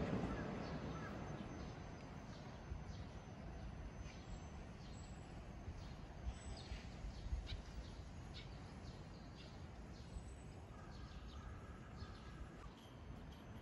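A passing train fades away over the first second or two, leaving faint outdoor background with scattered short bird calls and a brief repeated call near the end.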